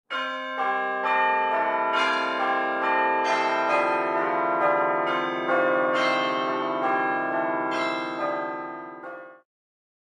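Bell-like instrumental music: pitched chime notes struck one after another, each ringing on under the next, fading out and stopping about nine seconds in.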